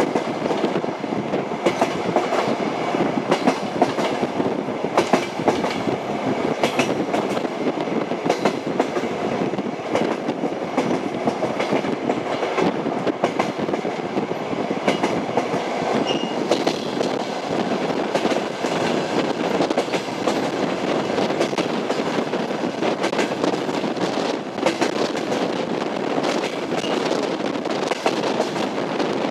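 Passenger train wheels clattering over the rail joints in a steady rumble, with a constant run of sharp clicks and knocks.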